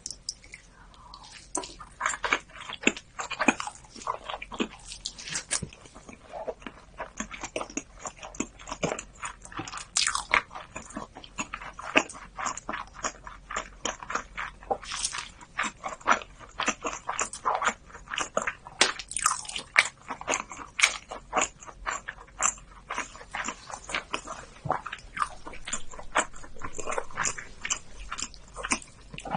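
Close-miked chewing and biting of salmon sushi: wet smacks and soft crunches several times a second, in irregular bursts.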